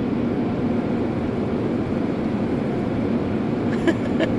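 Automatic car wash machinery running steadily, heard from inside the car as a muffled, even rumble, with a couple of short clicks or taps near the end.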